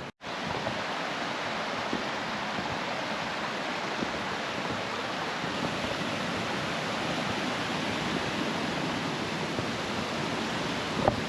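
Steady rush of a mountain stream, an even water noise without a break, after a brief cut in the sound right at the start.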